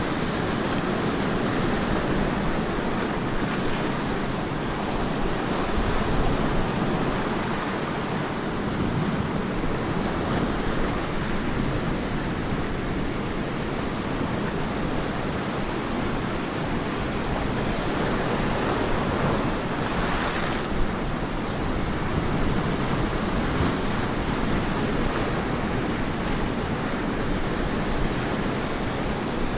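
Ocean surf breaking and washing on a beach, a continuous rush of water noise that swells a little now and then as waves come in.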